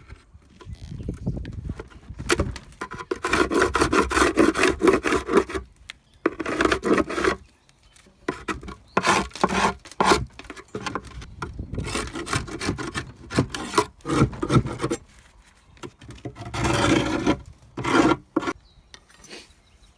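Wooden beehive frames and hive-box parts scraping and rubbing against each other, in a run of rasping strokes: one long stretch of about three seconds, then several shorter ones with pauses between.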